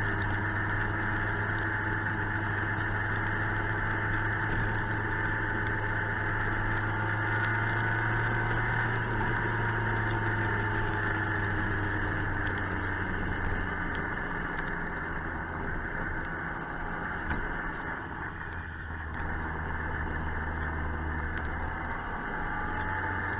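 Suzuki GSX-R 1000 inline-four engine running at steady cruising speed under a constant rush of wind noise. The engine note sinks a little in the second half and rises again near the end.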